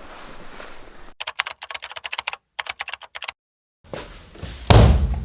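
Computer keyboard typing: a quick run of key clicks for about two seconds, with short breaks, then a moment of dead silence and a heavy thud near the end.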